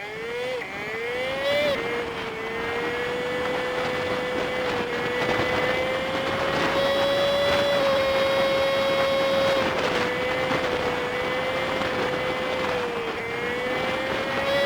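Honda Super Cub 50's small single-cylinder engine, sped up fivefold, pulling away: the pitch climbs and drops twice with gear changes in the first two seconds, then holds steady at cruising speed.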